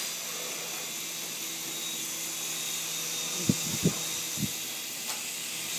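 Syma S107G coaxial mini RC helicopter's small electric motors and counter-rotating rotors running with a steady whirring whine. Three soft knocks come about three and a half to four and a half seconds in.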